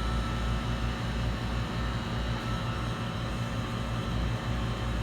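Steady whirring hum of a fan or blower with a low drone underneath, unchanging throughout.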